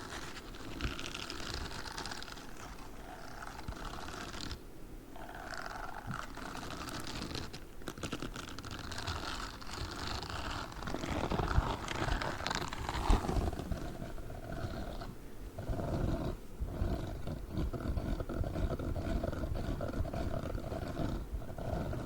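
Grey spiked gloves rubbing and scratching right against the microphone: a continuous rustling, scratchy noise with a low rumble, getting louder about halfway through.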